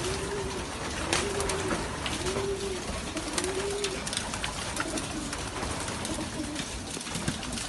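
Racing pigeons cooing: a run of rising-and-falling coos about one a second, fading after about four seconds. Scattered sharp clicks and taps run throughout.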